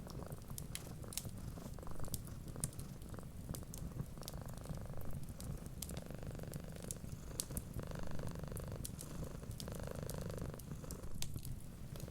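Domestic cat purring steadily, swelling with each breath about every two seconds. Over it, a wood fire crackles with small sharp pops.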